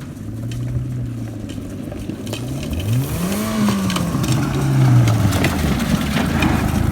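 Small car's engine running, revving up once about three seconds in and easing back down, with scattered knocks.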